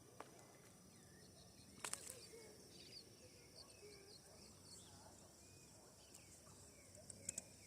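Quiet outdoor ambience of many faint, scattered bird chirps over a steady high buzz, with a brief click about two seconds in and another near the end.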